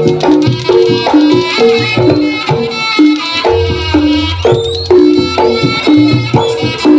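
Javanese jaranan ensemble playing live: hand drums over a repeating pattern of short pitched gong-chime notes, with a brief rising glide about four and a half seconds in.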